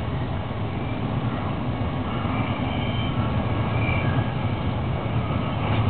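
BNSF freight train passing at a distance: a steady, low rumble.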